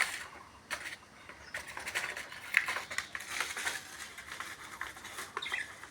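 Scattered light clicks, scraping and rustling as a pet bird cage and its dishes are cleaned.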